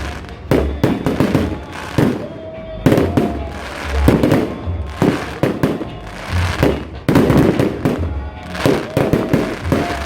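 Fireworks display: a rapid, irregular string of bangs and crackles from aerial shells bursting, with music playing underneath.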